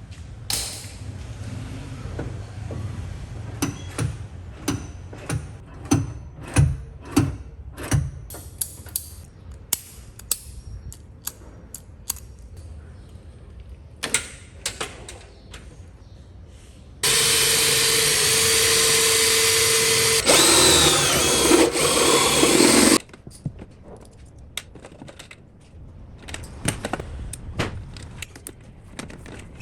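Scattered knocks and clicks of hand work, then a power tool runs loudly for about six seconds with a steady whine that shifts in pitch partway through. It stops abruptly, and the clicking and tapping resume.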